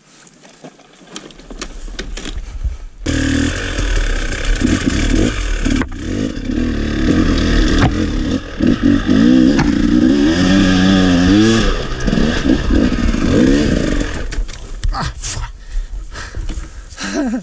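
Two-stroke enduro motorcycle engine, a KTM 300, comes in loud about three seconds in and revs up and down as the bike is ridden, easing off near the end.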